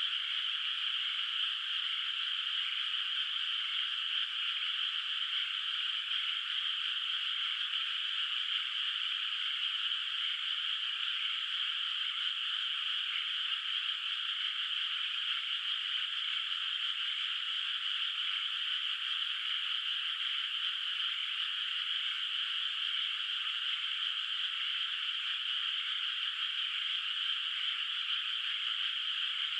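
A dense chorus of many frogs calling at once from a flooded rice paddy, blending into one steady, fairly high-pitched wall of sound with no lulls and nothing deep beneath it.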